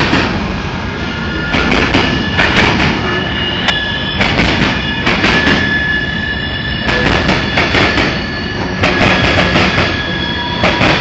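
Freight cars of a CSX mixed freight train rolling by, wheels squealing in a steady high pitch over repeated clattering of the wheels on the rail.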